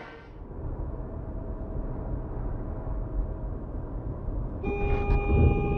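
Road and engine noise from a moving car, then a car horn blares with one steady held note starting near the end.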